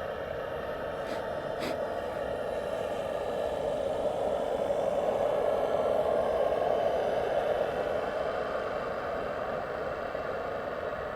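Model steam boat's Saito T2-DR steam engine running steadily under way, growing louder to a peak about six seconds in and then fading as the boat passes. Two light clicks come about a second in.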